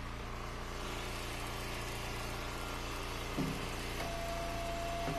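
An engine idles steadily with a low hum; a steady higher whine joins it about four seconds in.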